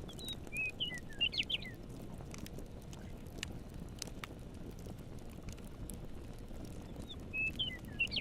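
Campfire crackling with scattered sharp pops over a low steady rumble, while a songbird sings a short phrase of quick chirps near the start and again near the end.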